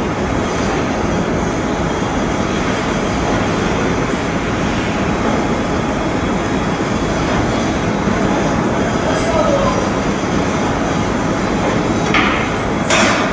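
Loud, steady shipyard machinery noise, broken by a few short, high-pitched metallic squeals: once about four seconds in, twice around eight to nine seconds, and again near the end.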